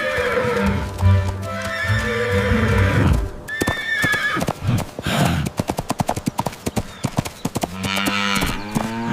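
Cartoon horse whinnying, followed about five seconds in by a fast run of clip-clopping hoofbeats, over background music.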